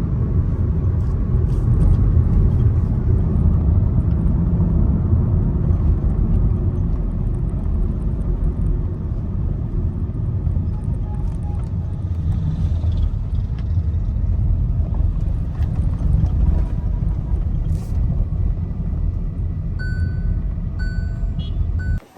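Hyundai Tucson running in a steady low rumble, on test after a faulty ignition coil that caused a cylinder misfire was replaced. A few short beeps sound near the end.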